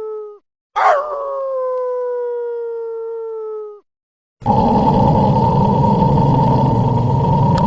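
A dog howling: one long howl that sweeps down sharply at its start, then holds and sinks slowly for about three seconds. A little after halfway a louder, rough, raspy growl starts and keeps going.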